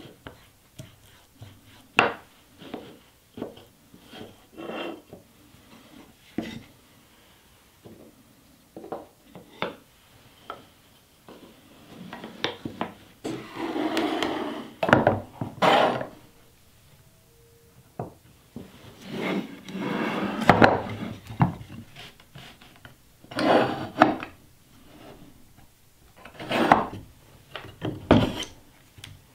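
Hardwood strips knocking and sliding against each other on a workbench during a glue-up: a string of separate wooden knocks, then longer stretches of rubbing and scraping, with some metal clinks from pipe clamps being set.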